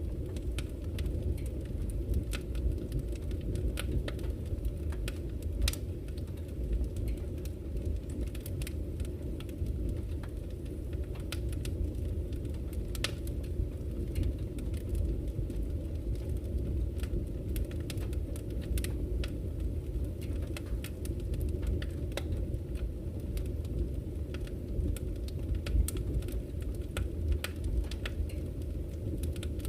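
Wood campfire crackling, with irregular sharp pops and snaps scattered through, over a steady low rush of flowing river water.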